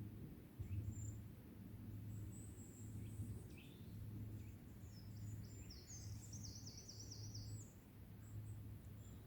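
Birds chirping and singing in woodland, with high short notes scattered throughout and a quick run of falling chirps about two-thirds of the way in, over a faint steady low hum.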